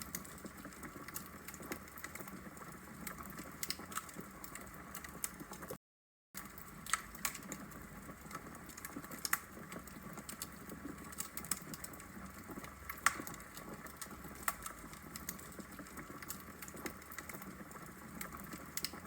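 Wood logs burning in a fireplace, crackling with irregular sharp pops over a soft steady hiss. The sound drops out to silence for about half a second around six seconds in.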